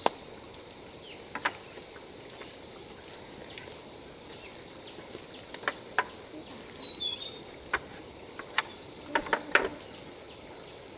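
A steady, high-pitched insect chorus, with scattered sharp clicks and knocks and a few brief high chirps a little past the middle.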